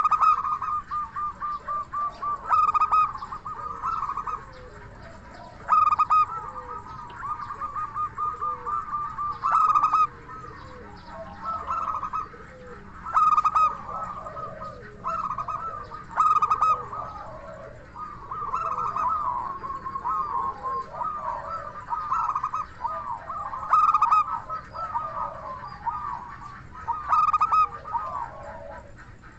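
Zebra doves (perkutut) cooing: rhythmic song phrases repeated every three to four seconds, each opening with a sharp high note and running into a quick rolling series of coos, with calls overlapping in the middle.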